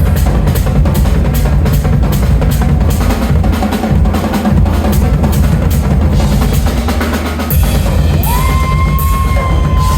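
Drum kit playing a loud, driving groove with bass drum, snare and fast, regular cymbal strokes. Near the end the pattern changes and a held high note comes in over the drums.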